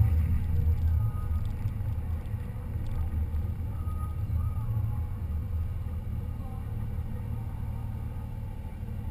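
Low, steady rumble of a car's engine and running noise, a little louder at the start and then easing off.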